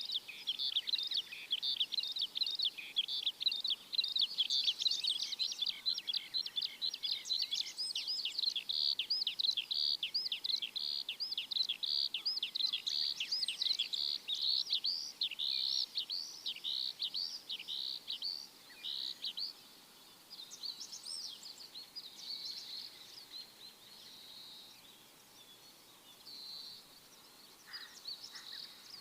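Birds chirping: a fast, dense run of high, down-slurred chirps, several a second, that thins out to scattered chirps about two-thirds of the way through.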